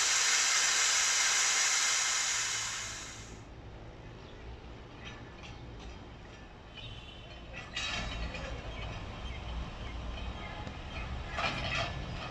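A loud hiss for about the first three seconds, then the low, steady rumble of a passenger train at the platform. A few metallic clanks come about eight seconds in and again near the end.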